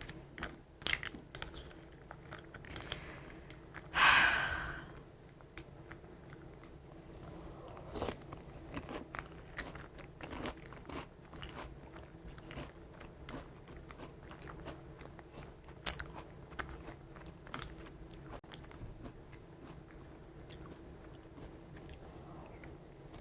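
A person chewing and biting crunchy Chex cereal, with many small crunches and clicks throughout and one louder rushing noise about four seconds in.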